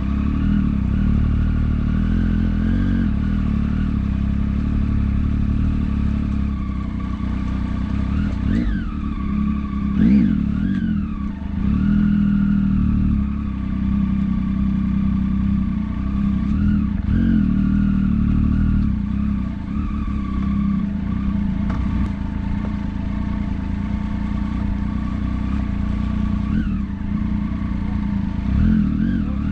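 Motorcycle engine running under way, a steady low drone whose revs rise and fall several times, most clearly about a third of the way in and again near the end.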